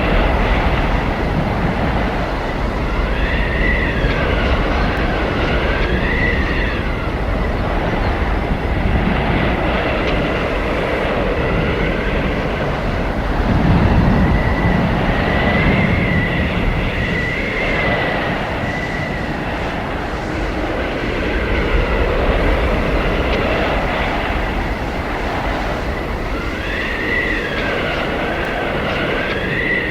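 Howling blizzard wind: a steady low rumbling rush with high whistling howls that rise and fall, coming in gusts a few seconds in, around the middle and again near the end.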